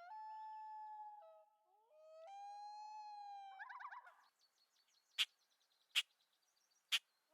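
Common loon wailing: two long notes, each sliding up into a held, steady tone, then a short quavering call about three and a half seconds in. Three sharp clicks follow in the second half.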